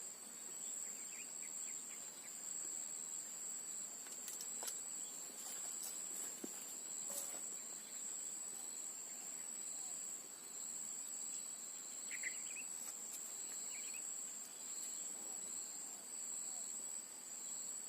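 Steady, high-pitched drone of insects, with a second, fainter tone lower down. A few faint short chirps come in about two-thirds of the way through.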